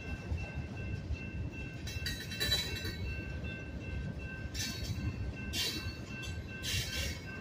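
Freight cars of a slow Union Pacific manifest train rolling past with a low, steady rumble, under the steady high ringing of the grade-crossing bell. Short hissing bursts come from the passing train about two seconds in and three times more in the second half.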